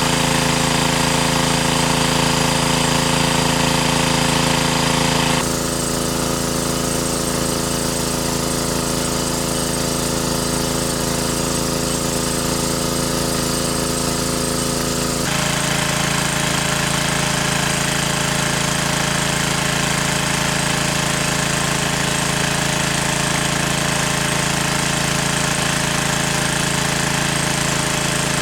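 A steady mechanical drone like a small engine running, with its tone changing abruptly about five seconds in and again about fifteen seconds in.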